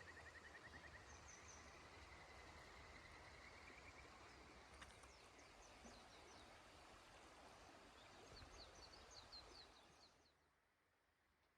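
Faint, steady rush of a river with small birds singing over it: a rapid trill at the start and a run of high chirps about eight seconds in. The ambience drops away suddenly near the end.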